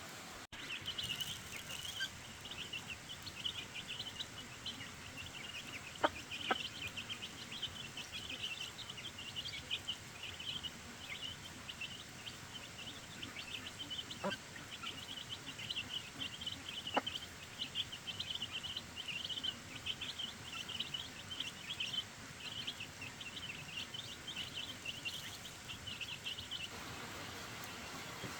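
Dense, continuous chirping and peeping of many small birds, with a few sharp clicks, cutting off abruptly near the end.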